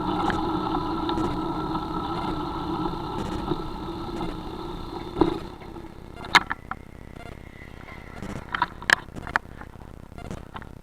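An engine running steadily, cutting off about five seconds in, followed by a few scattered clicks and knocks.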